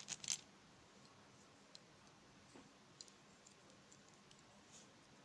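A few hard clicks, like slate pencils clinking as they are handled, in the first half second, then near silence with faint scattered ticks.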